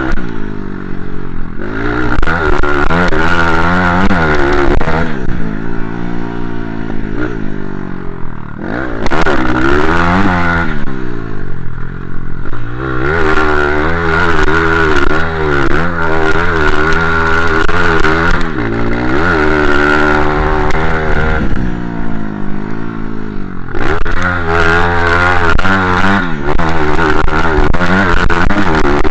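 Motocross dirt bike engine revving hard and backing off over and over, its pitch climbing through each gear and dropping as the throttle is shut, with a few sharp cuts and pick-ups.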